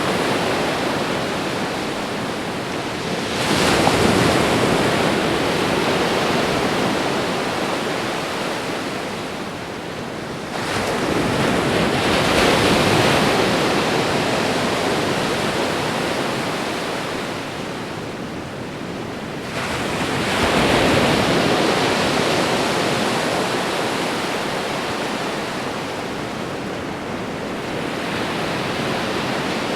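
Ocean waves breaking on a shore, a continuous rush of surf that swells with each wave about every eight or nine seconds and ebbs between.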